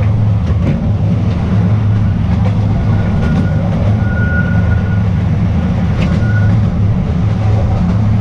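Narrow-gauge Artouste tourist train running along its track: a steady low rumble of wheels on rails, with a few light clicks and a faint high squeal coming and going in the middle.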